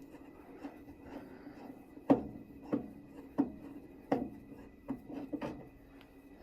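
Hands and tools working on furnace parts: about seven sharp knocks and clicks at irregular spacing from about two seconds in, over a faint steady hum.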